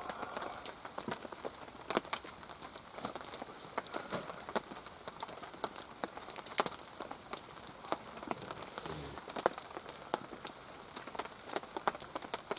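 Rain falling, with many separate drops striking a surface close by at irregular intervals.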